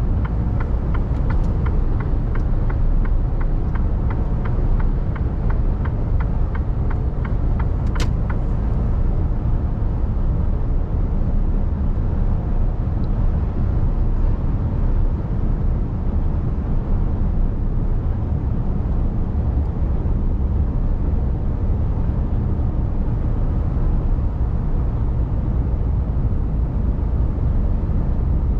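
Mercedes Actros truck driving, heard from inside the cab: a steady low engine and road rumble. Over the first eight seconds or so a rapid, regular ticking runs over it, ending with one sharp click.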